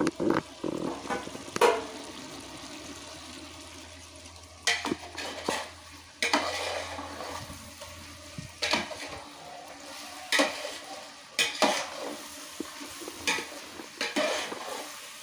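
Marinated chicken frying in onion-tomato masala in a large pot, sizzling steadily, while a spoon scrapes and knocks against the pot at irregular intervals of a second or two as it is stirred to keep it from sticking.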